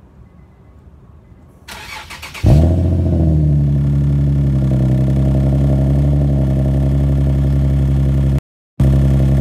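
Infiniti G37's 3.7-litre V6 cold-starting through a Manzo axle-back exhaust. The starter cranks for under a second, the engine catches with a loud burst about two and a half seconds in, then settles into a steady cold idle. A brief drop-out comes near the end.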